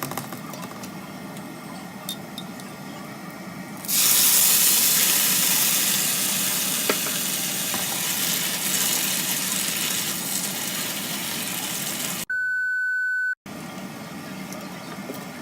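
Food sizzling in a hot frying pan. It starts suddenly about four seconds in, as if ingredients hit the hot oil, and slowly dies down. Near the end a steady beep lasts about a second.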